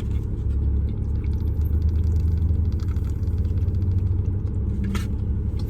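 Semi truck engine running steadily, a low, even drone.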